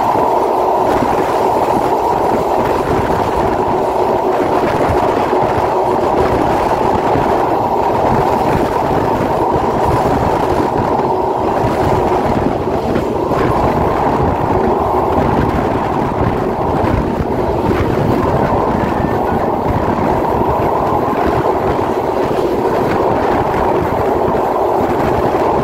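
Passenger train running at speed, heard from an open carriage door: a loud, steady rumble of the wheels on the rails.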